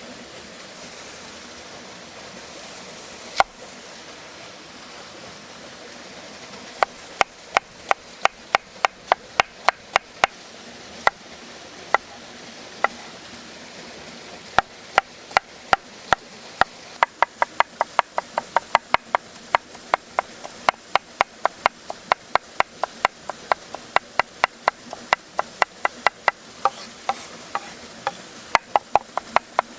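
Knife chopping food on a wooden cutting board, about three to four quick strokes a second in two long runs with a short pause between, after a single knock near the start. A steady rush of running water lies underneath.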